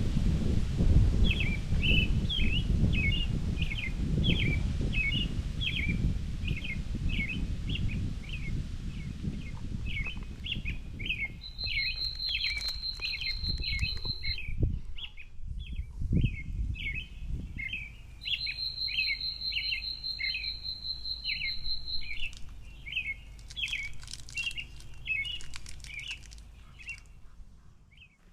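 Forest songbirds: one bird repeats short chirping notes about twice a second throughout, and twice a higher, steady trill is held for three to four seconds. A low rumble fades out about halfway through.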